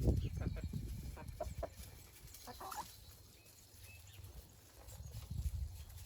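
Chickens clucking, a run of short clucks in the first couple of seconds and a louder call just before the middle, over a low rumble.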